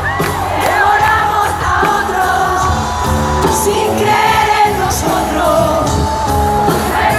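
Live band playing a pop song, with a voice singing the melody over steady drums and crowd shouts mixed in.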